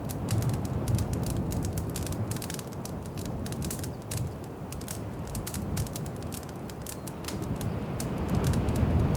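Wood fire crackling in a fireplace, with rapid, irregular small pops and snaps over a low rumble. The rumble grows louder near the end.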